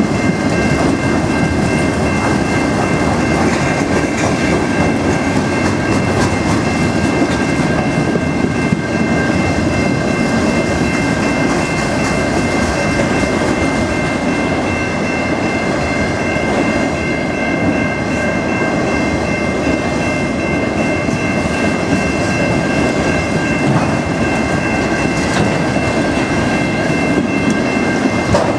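Autorack freight cars of a freight train rolling steadily past: a continuous rumble of wheels on the rails. Over it, the grade-crossing warning bell rings as a steady high tone.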